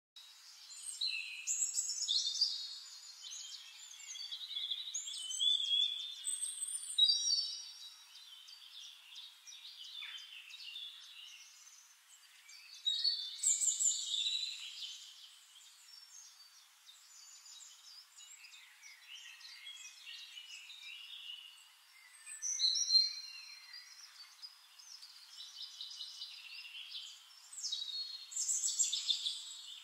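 Songbirds singing: bursts of high chirping and warbling phrases a few seconds apart, with quieter chirps in between.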